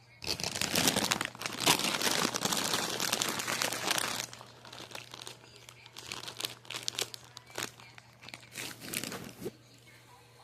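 Food packaging being crinkled and torn open by hand: a dense crackling for about four seconds, then scattered short crinkles until near the end.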